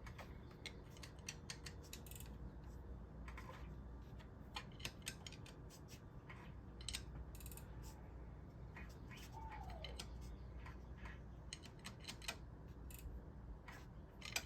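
Scattered light clicks and taps of hand tools and fittings being handled at the engine while a leak-down tester is hooked to one cylinder, with a brief falling squeak about halfway through, over a faint steady low hum.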